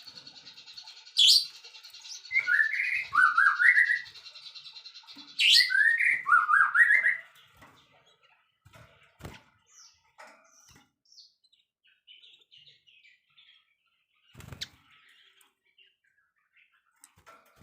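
A songbird singing: a rapid buzzy trill, then twice a loud phrase of a sharp upward whip note followed by a quick run of falling slurred notes. After that only faint scattered chirps, with a couple of soft clicks.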